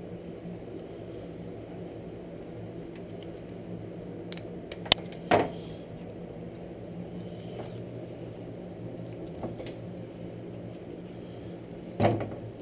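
A few knocks and clinks of small metal parts being handled, over a steady low hum: a sharp click about five seconds in, a short knock just after it, and another knock near the end.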